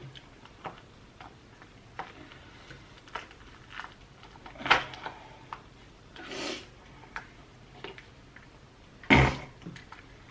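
Close-miked eating sounds of a person chewing lobster tail: scattered wet mouth clicks and smacks, with a few louder mouth sounds near the middle and near the end.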